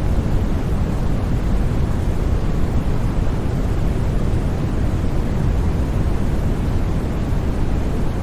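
Steady, unbroken white noise for sleep, a constant rushing hiss that is heaviest in the low end, with no changes or sudden sounds.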